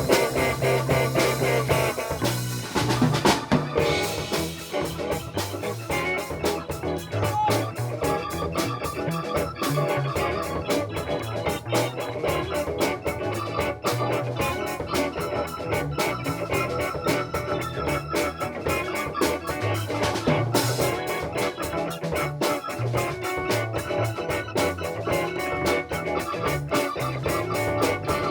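Music from a live band playing an instrumental with guitar, organ and drums, with a steady beat.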